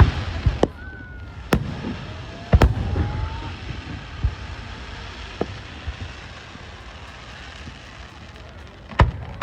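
Fireworks display: aerial shells bursting with sharp booms at uneven intervals, the loudest about two and a half seconds in and near the end, over a steady background hiss. A faint rising whistle runs just before the loud burst.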